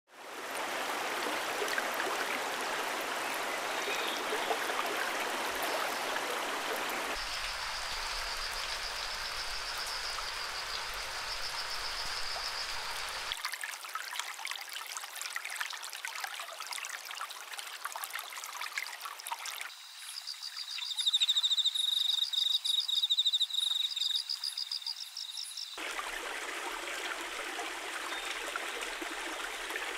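A stream of running water, in several spliced recordings that change abruptly every few seconds. Twice a rapid high trill sounds over the water, the second time louder.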